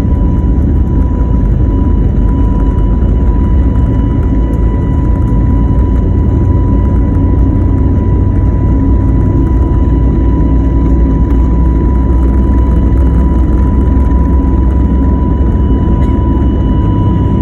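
Jet airliner cabin noise during takeoff: the engines' loud, steady rumble with a steady high whine over it, unchanging throughout.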